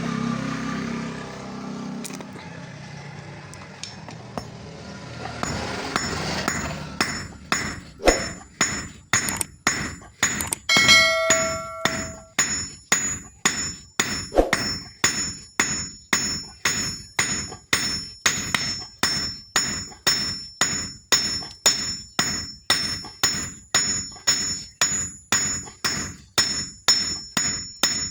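A steady rushing noise, then a blacksmith's hammer striking steel on an anvil at about two blows a second, each blow ringing. One louder pitched clang comes near the middle.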